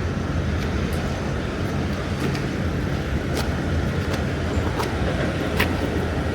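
Steady low hum and rumble of electric suburban trains standing at a station platform, with a few sharp clicks now and then.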